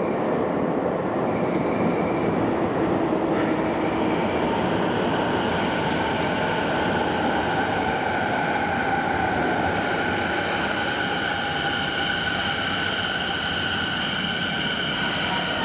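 Electric commuter train on the Keio New Line running through an underground station, a steady rumble throughout. From about five seconds in, high whining tones join it and hold steady.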